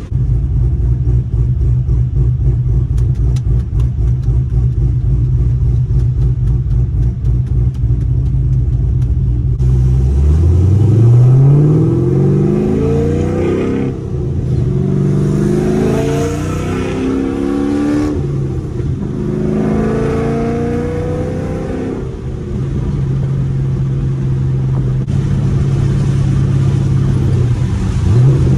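Cammed, straight-piped LS3 6.2-litre V8 of a manual 2011 Camaro SS, heard from inside the cabin. It starts with a low, steady rumble with an uneven pulse at low revs. About ten seconds in it revs up hard, and the pitch climbs, drops at each upshift and climbs again three times. Then it settles to a steady cruise and starts rising again near the end.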